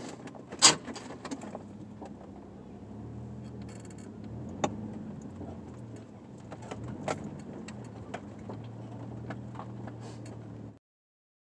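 A vehicle's engine running with a steady low hum, with scattered sharp clicks and knocks, the loudest about a second in. The sound cuts off suddenly near the end.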